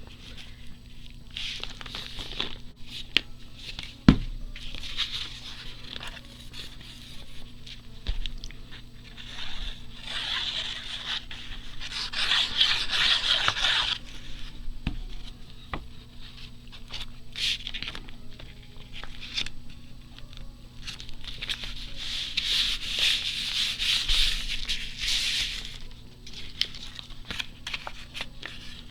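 Paper being handled and rubbed against a tabletop: repeated scraping and rubbing in stretches of a few seconds, with a sharp knock about four seconds in and another about fifteen seconds in.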